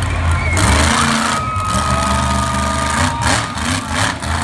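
Monster truck engine running with a loud, steady low rumble, with short bursts of louder noise near the end.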